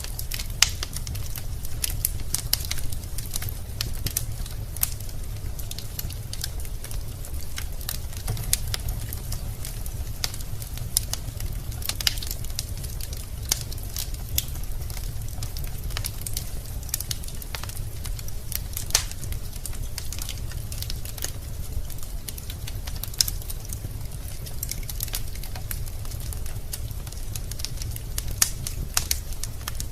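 Wood fire in a fireplace crackling and popping: irregular sharp snaps of burning logs over a steady low rumble of the flames.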